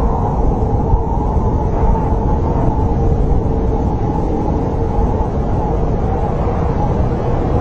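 Snowstorm wind blowing steadily, a deep rushing with a faint wavering howl running through it.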